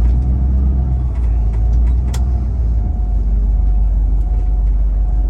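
Car running, heard from inside the cabin: a steady low rumble with a couple of sharp clicks, one at the start and one about two seconds in.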